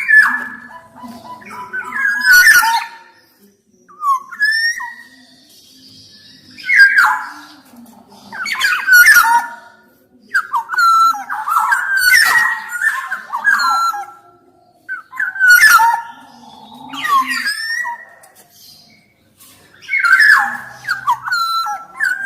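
Black-naped oriole (kepodang) singing: short phrases of fluty, gliding whistles, repeated every two to three seconds with brief pauses between.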